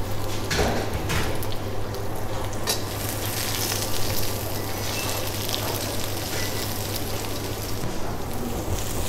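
Chanterelles, zucchini and onion sizzling in oil in a steel wok as chopped garlic is added and the food is stirred, with a few light clicks of the utensil against the pan. A steady low hum runs underneath.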